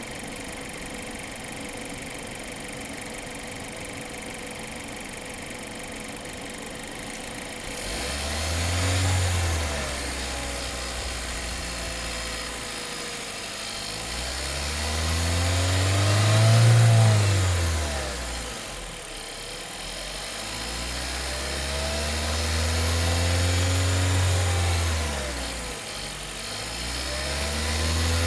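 Opel Insignia B's 1.6 turbo petrol four-cylinder (D16SHT) running with a rattle from the engine bay and a shaking idle whose cause the dealer has not found. It idles steadily at first, then from about a third of the way in is revved up and let fall back about four times.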